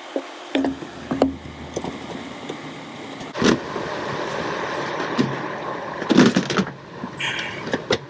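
Scattered knocks and clatters of tools and parts being handled during hands-on car repair, a louder cluster about three and a half seconds in and again around six seconds, over a low steady hum.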